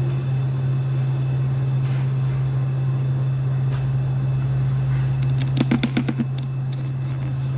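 Steady low buzz of an AC TIG welding arc on an aluminium motorcycle cylinder block, with a quick run of about seven sharp clicks or taps a little past halfway.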